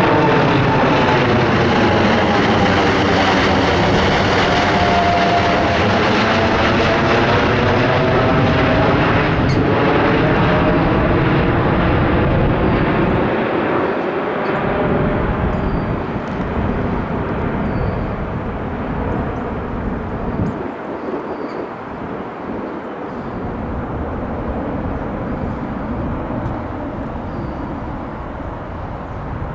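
Boeing 747-8I's four GEnx-2B67 turbofan engines at takeoff power going past: a loud jet roar with a whine that falls in pitch and a swirling, sweeping tone during the first several seconds. The roar then grows duller and slowly fades as the jet climbs away.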